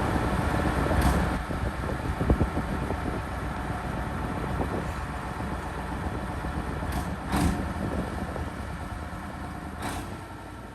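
Massey Ferguson 4840 tractor's V8 engine running steadily under load as it pulls a cultivator through stubble, fading slightly near the end.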